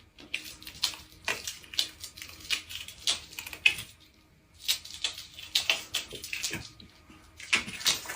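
Water splashing and sloshing in short, irregular bursts, with a brief lull about halfway through.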